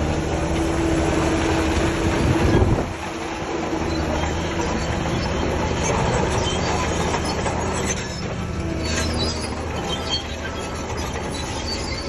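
Shantui DH17C3 crawler bulldozer working: its diesel engine runs steadily under the clanking and squealing of its steel tracks. It is loudest in the first three seconds, then eases a little.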